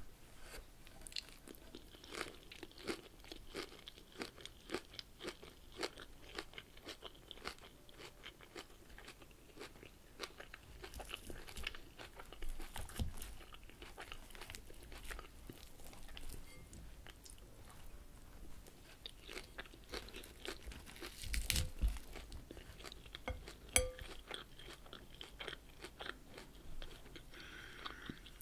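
Close-miked chewing of crunchy salad leaves: a steady run of crisp crunches and mouth sounds, with a few louder knocks now and then.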